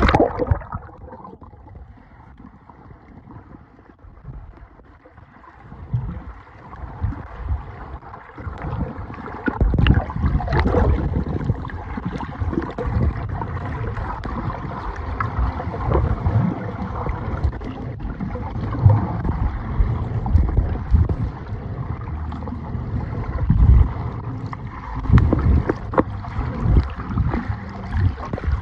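Flowing river water heard underwater: muffled rushing with irregular low rumbling, louder from about a third of the way in, after a sudden loud burst right at the start.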